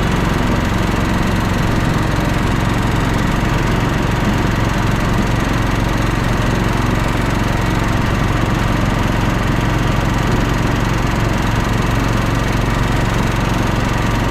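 Late-1990s Scotts 16-horsepower lawn tractor engine running steadily while the tractor is driven.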